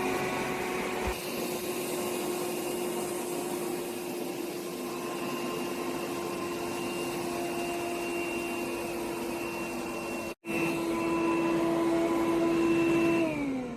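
iRobot Roomba 105 robot vacuum running, its motor giving a steady whine over a rushing noise. The sound drops out briefly about ten seconds in. Near the end the pitch falls as the motor winds down.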